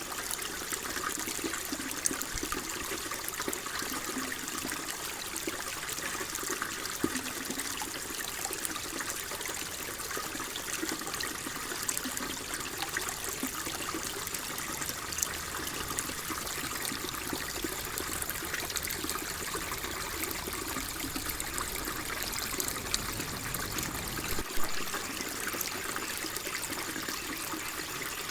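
Water flowing and trickling steadily, an even rushing hiss with small irregular splashes.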